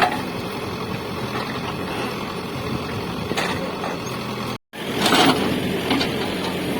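Diesel engine of a Caterpillar 424B2 backhoe loader running steadily. A little past two-thirds of the way through, the sound drops out for a moment and then comes back with a short, louder burst of noise.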